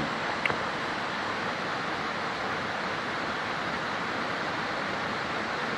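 Steady rushing of water, an even hiss with no rise or fall, with one faint click about half a second in.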